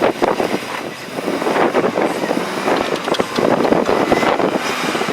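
Heavy vehicle engine running in snow, with wind buffeting the microphone.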